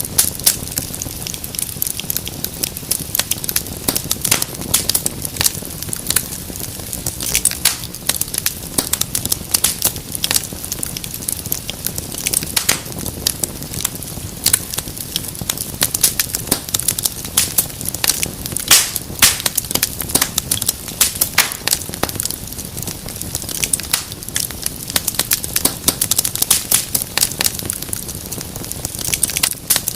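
Wood fire crackling in a fireplace: dense, irregular sharp pops and snaps over a low steady rumble of burning.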